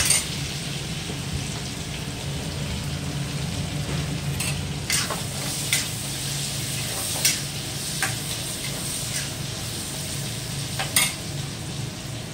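Green chillies and garlic frying in oil in a steel kadhai, sizzling steadily, while a spatula stirs them and knocks sharply against the pan several times.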